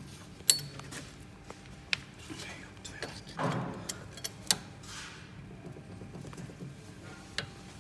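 Mitsubishi Pajero 4 steering rack knocking: a handful of sharp, irregular knocks, the loudest about half a second in. The knock is the sign of a worn rack, judged to need repair or replacement.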